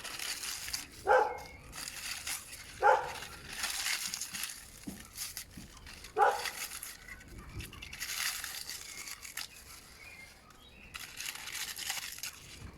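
A dog barks three short times, about a second in, near three seconds in and about six seconds in, over the crackling rustle of dry leaves being crumpled and piled by hand.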